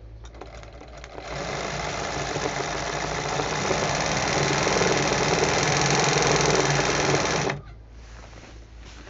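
Handle-guided embroidery sewing machine stitching: it starts up about a second in, runs steadily and grows louder, then stops abruptly near the end.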